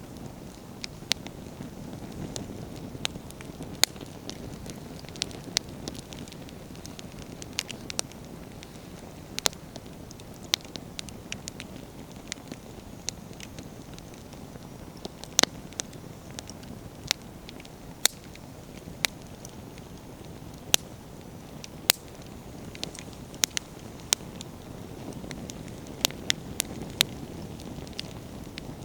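Wood fire burning: a low steady rush of flames under frequent irregular sharp crackles and pops from the burning firewood, some much louder than others.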